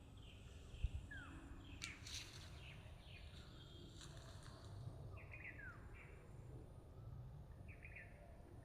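Birds chirping and calling, with short chirps and falling call notes, faint over a steady low background rumble. A short thump comes about a second in.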